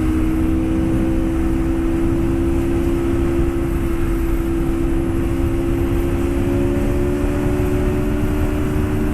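Aprilia RSV4's V4 engine running at a steady cruise, its note holding nearly constant and creeping slightly higher in pitch, with wind rushing over the microphone.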